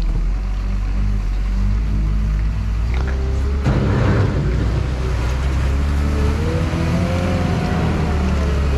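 Heavy vehicle engine running steadily. About three and a half seconds in it gets louder and harsher, and later its pitch rises and falls once as it speeds up and slows back down.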